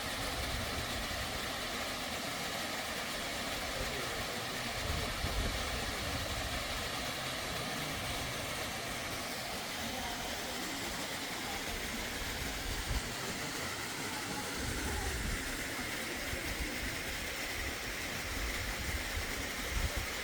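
Steady rush of a mountain stream and its waterfalls, an even hiss with an uneven low rumble underneath.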